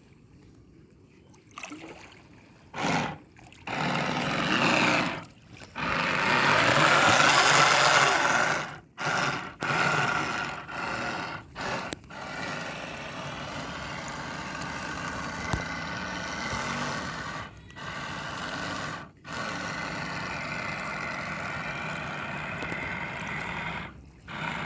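Homemade RC boat's motor and propeller drivetrain running with an abnormal sound from a broken propeller-shaft cross joint: a loud rough noise for several seconds, then a steady whine with several tones, cut by a few brief dropouts.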